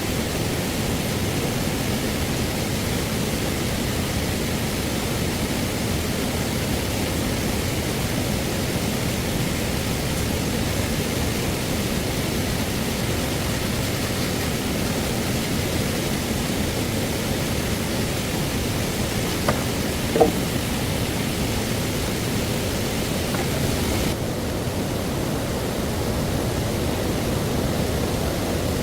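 Steady rush of a flowing stream, with a couple of short knocks about twenty seconds in. The hiss loses some of its highest part a little after twenty seconds in.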